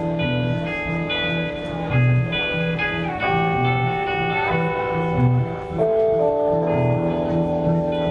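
Live band music with no vocals: held, sustained guitar notes shifting every second or so over a bass line pulsing about twice a second.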